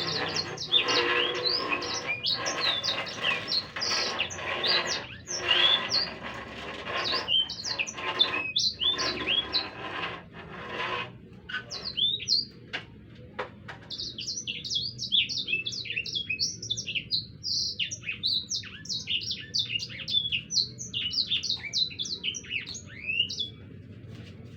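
Songbird singing a long, rolling run of quick whistled notes that sweep up and down. For about the first eleven seconds a dense rasping chatter sounds beneath the song, then drops away, leaving the fast notes clear.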